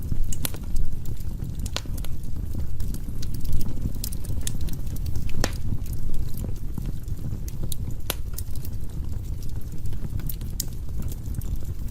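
Wood fire crackling in a fireplace: sharp pops and snaps every second or so over a steady low rumble.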